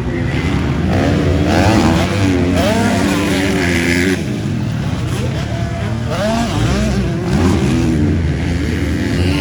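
Several motocross bikes racing, their engines revving up and down, with overlapping engine notes rising and falling throughout.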